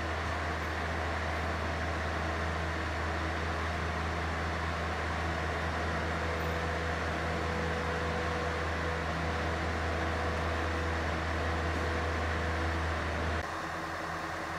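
A large vehicle engine running steadily with a deep, even hum, no revving. It cuts off suddenly near the end.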